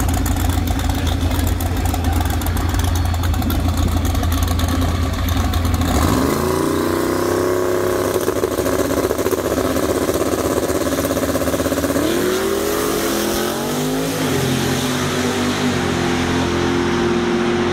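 Car engines at a drag strip: a heavy, loud rumble as the cars wait at the start line, then about six seconds in they launch and the engine pitch climbs steeply, dropping and climbing again at two gear changes as they pull away down the track.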